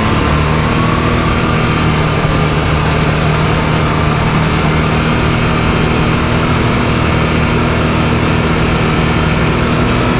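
Can-Am Maverick X3's turbocharged three-cylinder engine running at a steady speed under way on a trail, along with the rush of ride noise. Its pitch drops slightly a moment after the start and then holds even.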